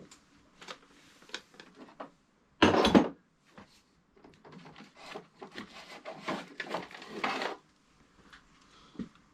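Small hand tools and metal parts being handled and rummaged through: scattered clicks and knocks, a loud clatter about three seconds in, then a few seconds of rattling and rustling.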